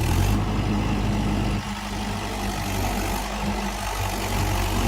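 Tractor diesel engine running steadily at low speed.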